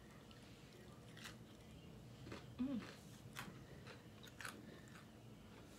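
People chewing and crunching a hard peanut butter snack: faint crisp crunches about once a second, with a brief hum near the middle.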